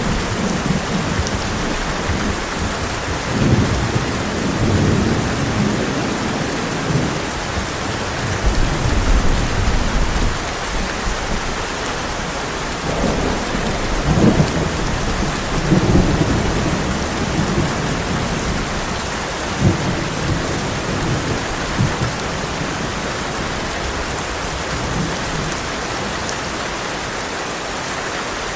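Heavy rain falling steadily on a tin roof, with thunder rolling in repeated low rumbles through most of it, loudest just past the middle and easing off near the end.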